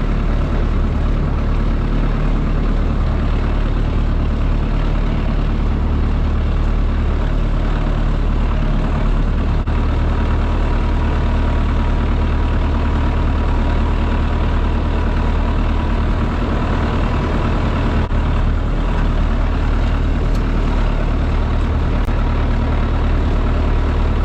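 Diesel tractor engine running steadily under load, a loud, even low drone with no break.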